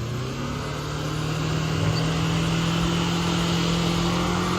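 Ford Mustang engine held at steady high revs, its pitch stepping up slightly near the start and then holding.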